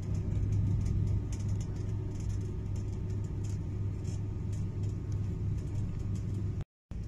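Passenger train running along the track, heard from inside the carriage: a steady low rumble with faint clicking over it. It drops out abruptly for a moment near the end.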